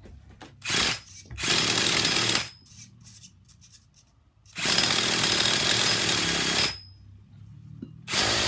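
An electric starter spins a small DTX 18 nitro engine over in repeated bursts: a brief one, one of about a second, one of about two seconds, and a fourth starting near the end, each cutting off abruptly without the engine catching. The owner suspects something hung up in the fuel line.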